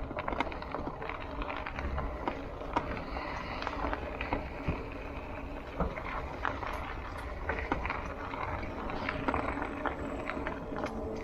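Bicycle rolling along a rough dirt trail: tyres crunching and rattling with many small clicks and knocks, over a low rumble.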